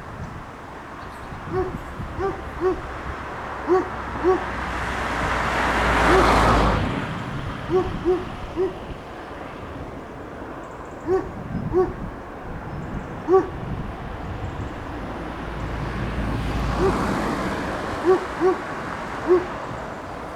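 A bird's short, low hooting calls, repeated in twos and threes. Two swells of rushing noise build and fade, peaking about six and seventeen seconds in.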